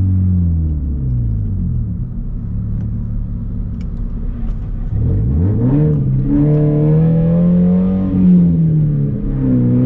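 Scion FR-S's 2.0-litre flat-four engine through an exhaust with the muffler and resonator deleted. The revs fall away over the first couple of seconds and hold low. About halfway in the car accelerates hard with the revs climbing steeply; the pitch drops once near the end as it changes gear, then climbs again.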